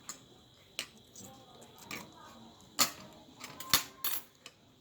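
Spoon and fork clinking against a bowl while eating noodles: half a dozen sharp, scattered clinks, the loudest about three seconds in and again just before four, one leaving a brief ring.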